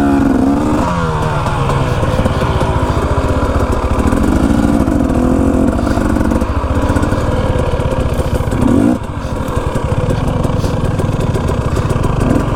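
Dirt bike engine running under way, its pitch rising and falling with the throttle, with a sudden drop in loudness about nine seconds in.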